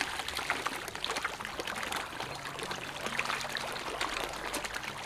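Running water trickling and splashing, with many small quick splashes; a faint low steady hum comes in about two seconds in.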